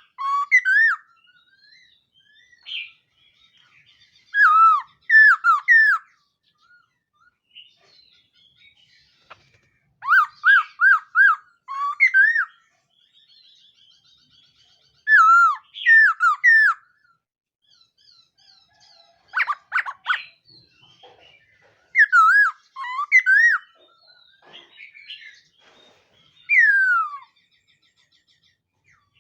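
A caged laughingthrush (khướu mun) singing: loud, clear whistled phrases of looping, rising and falling notes, repeated every few seconds with short pauses. A quick run of rapid notes comes about two-thirds through, and a single long falling whistle comes near the end.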